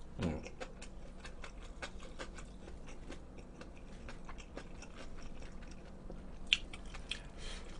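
A person chewing a mouthful of cold sliced pig's trotters, with many small wet mouth clicks and a sharper click about six and a half seconds in.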